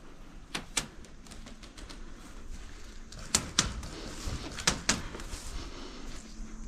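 Several sharp knocks or clicks in pairs, each pair about a quarter second apart: one pair near the start, two more in the middle.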